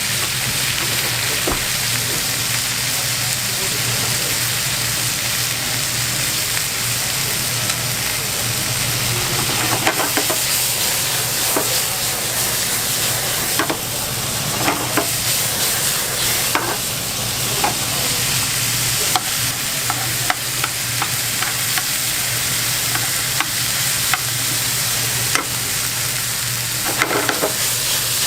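Food sizzling on a hot cooking surface: a steady frying hiss with scattered clicks and light knocks, over a steady low hum.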